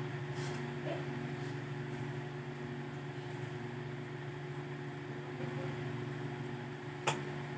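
Steady low mechanical hum, like a running fan motor, with faint rustling and one sharp click about seven seconds in.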